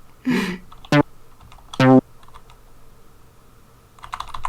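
Two short pitched sample notes from the Amiga Soundtracker sample disks, played back in a tracker about one and two seconds in, after a brief hissy burst. Computer keyboard clicks near the end.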